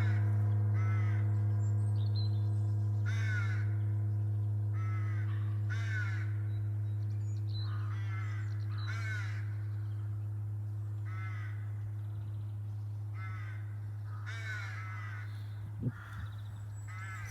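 A large gong's deep hum ringing out and slowly fading after its last stroke, while crows caw repeatedly in the background. A single small knock comes near the end.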